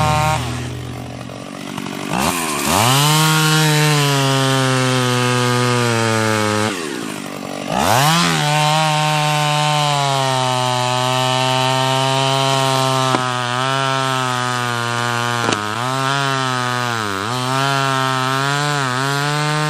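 Two-stroke chainsaw running at high revs, its pitch sagging and recovering several times as it works through wood. Twice, about two and seven seconds in, the engine note drops sharply and climbs back up as the throttle is let off and opened again.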